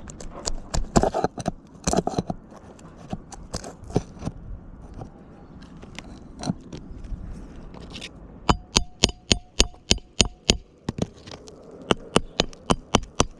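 Metal strikes on a snake tool driven under an asphalt shingle to free and pull roofing nails. First come scattered scrapes and taps. Then, about eight seconds in, a quick run of ringing metal blows at about five a second, and another run near the end.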